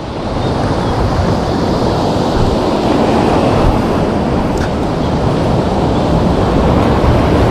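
Heavy surf breaking and washing along the rocky shoreline: a loud, steady rush of water that swells over the first second and then holds.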